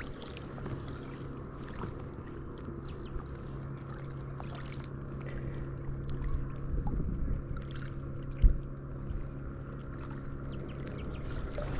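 A steady low motor hum, with scattered small clicks and handling knocks, and one short low thump about eight and a half seconds in.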